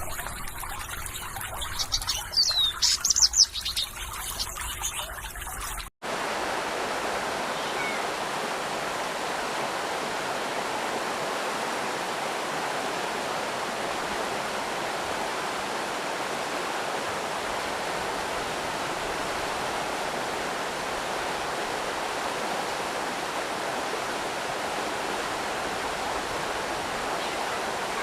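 Water flowing over and around stones in a stream, with a few bird chirps two to four seconds in. About six seconds in it cuts abruptly to a steady, even rush of stream water.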